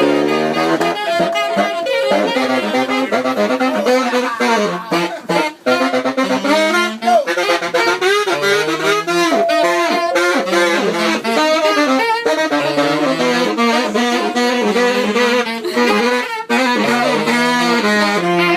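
Live jazz played on saxophone with a brass-band backing, a moving bass line under it, and the melody running continuously in quick phrases.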